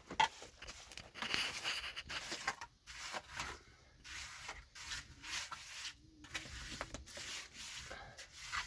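A series of irregular scraping strokes: a hand tool spreading and smoothing wet cement.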